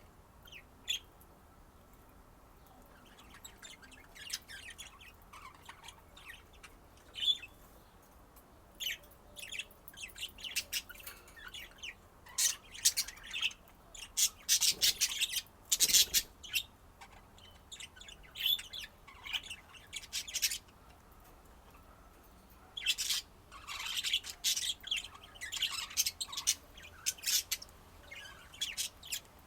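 Pet budgerigars chirping and chattering in short, high-pitched calls, sparse at first and busier from the middle on.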